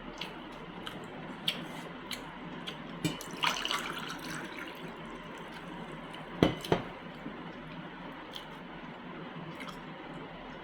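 Close-miked wet eating sounds of someone eating chicken masala and mutton liver gravy by hand: scattered smacking clicks over a steady hiss, a crackly patch about three and a half seconds in, and two sharp knocks a little past the middle.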